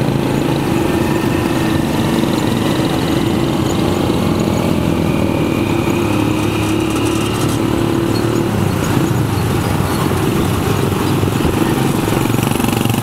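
Motorcycle engine of a Medan becak motor (motorcycle-and-sidecar pedicab) running steadily while under way, heard close from the passenger seat, with street traffic around. The engine note changes about seven seconds in.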